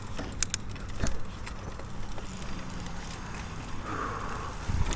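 Mountain bike rolling down a dirt trail: tyre noise on the dirt, a few sharp clicks and rattles from the bike, and a low rumble of wind on the microphone, getting louder near the end.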